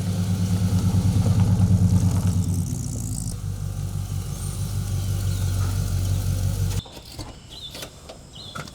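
A vehicle engine idling with an even pulsing beat, cutting off abruptly about seven seconds in. Faint bird chirps follow.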